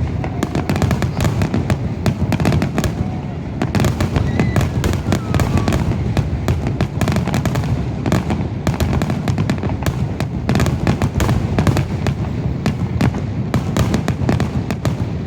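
Fireworks finale barrage: aerial shells bursting in rapid, overlapping succession, sharp cracks over a continuous low rumble of booms.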